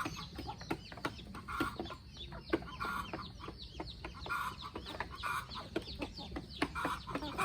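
A flock of free-range chickens clucking and calling, with many short falling calls overlapping one another without a break.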